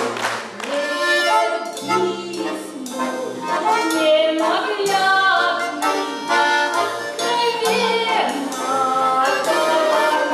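Garmon, a Russian button accordion, playing a lively folk tune with full chords.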